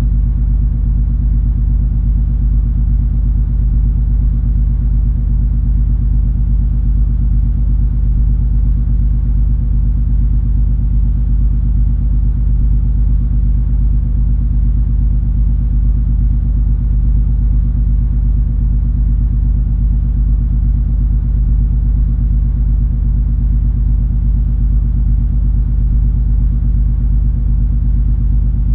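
Steady, unchanging low drone of the cruise ferry MS Color Magic's engines heard on board: a deep rumble with a hum of several steady tones over an even hiss.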